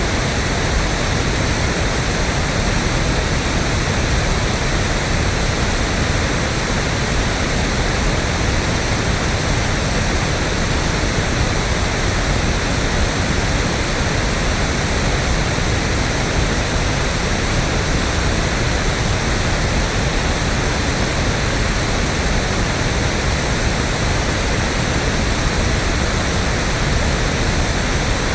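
Steady, unbroken pink noise: electronically generated random noise like a rushing waterfall or surf, even and unchanging throughout.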